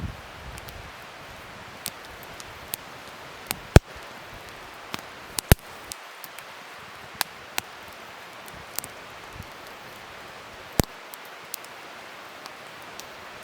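Wood fire crackling: a steady hiss of burning with sharp, irregular pops every second or so, the loudest about four seconds in and again about five and a half seconds in.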